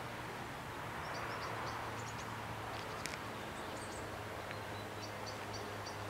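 Small birds chirping in short high calls, a quick run of four near the end, over a steady outdoor background hum, with one sharp click about three seconds in.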